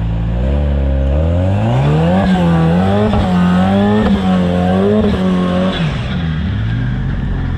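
Rock-crawling buggy engine revving up, holding high revs with small rises and dips for a few seconds, then dropping back toward idle.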